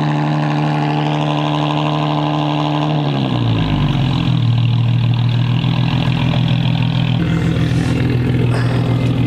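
Infiniti G37's 3.7-litre V6 idling through its exhaust, its idle note dropping in pitch about three seconds in and then holding steady as the car rolls backward.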